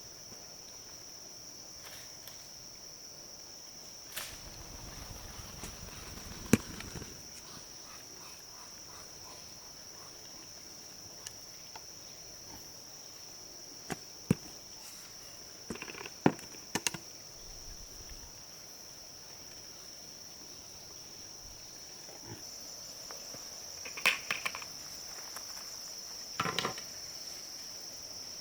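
Insects singing steadily in one high, even drone, with scattered sharp knocks and clicks: single ones early on, small clusters around the middle and near the end.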